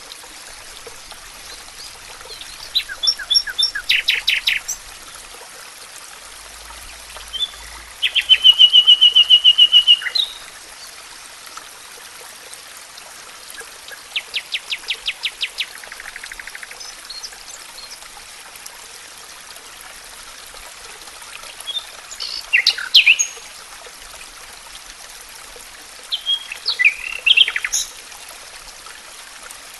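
Wild songbirds singing in separate phrases over a steady faint hiss. The loudest phrase, about eight seconds in, is a rapid, even trill of repeated notes; the others are shorter, chirpy phrases.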